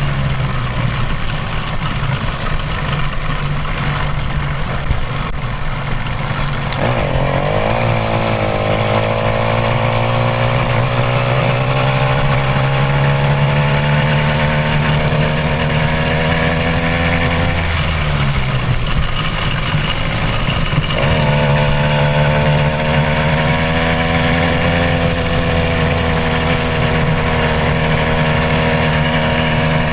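Stock 66cc two-stroke bicycle engine kit running under way. Its pitch climbs from about seven seconds in as the throttle opens, drops off for a few seconds near the middle, then picks up and climbs again.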